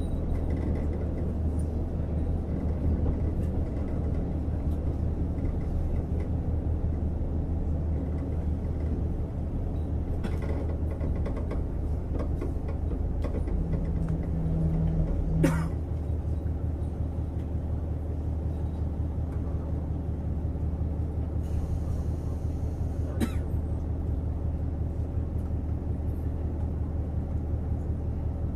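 Interior of a JR Hokkaido KiHa 150 diesel railcar running along the line: a steady low drone of the diesel engine and wheels on the rail. About fifteen seconds in there is a brief tone and a sharp click, and there are a few fainter clicks.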